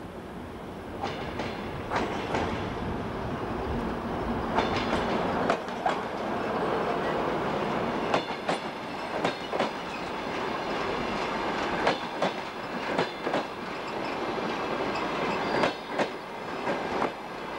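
DR1A diesel multiple unit passing close by, its wheels clacking over the rail joints in uneven groups of sharp clicks over a steady rumble of running gear. It grows louder about four seconds in as the train comes alongside.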